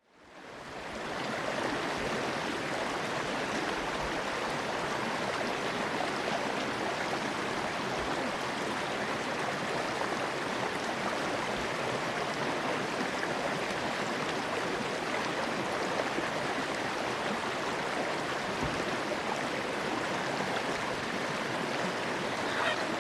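Steady rushing of flowing water, fading in over the first second or two.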